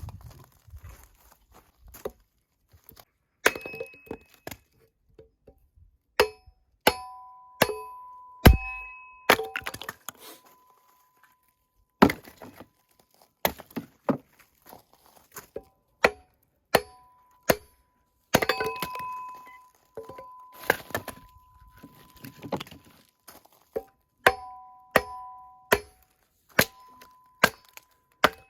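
Firewood being split by hand: a string of sharp chopping strikes at irregular intervals, about one a second. Many of the blows leave a short clear metallic ring from the splitting tool.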